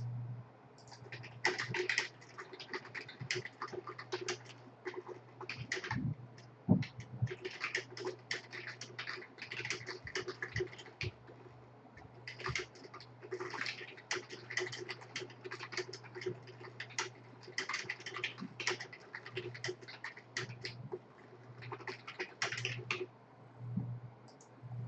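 Typing on a computer keyboard in quick runs of keystrokes, over a steady low hum.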